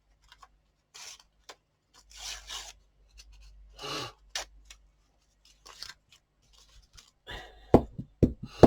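Scraps of paper rustling and being rubbed as they are handled and smoothed down with glue, in short scattered bursts. Near the end come several sharp, louder taps.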